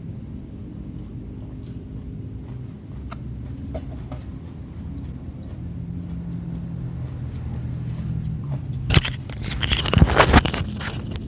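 Steady low rumble with faint scattered clicks, then about nine seconds in, loud close-up biting and crunchy chewing of food.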